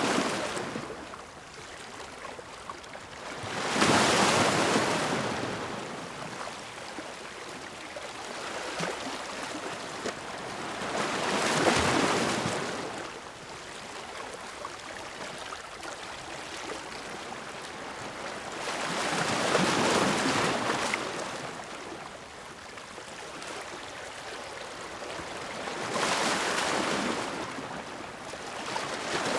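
Sea waves crashing against rocks: four surges about eight seconds apart, each a loud rush of surf that washes back into a steady lower hiss between breakers.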